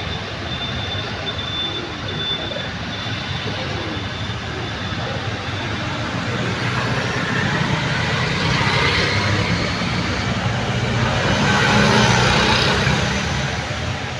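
Steady vehicle or traffic noise with a low engine hum, swelling louder about two-thirds of the way in and again near the end, as if vehicles pass close by.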